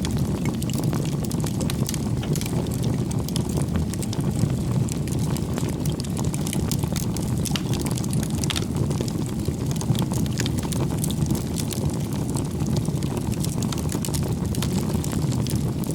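Wood campfire burning: a steady low noise of flames, with frequent small crackles and pops from the burning firewood.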